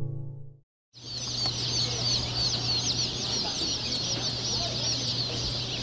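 Guitar music fades out at the start; after a moment's silence, a flock of chukar partridges chirps continuously, many short high calls overlapping, over a low steady hum.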